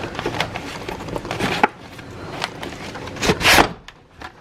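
A gift being unwrapped and handled: rustling packaging and light knocks, with a louder rustle about three and a half seconds in.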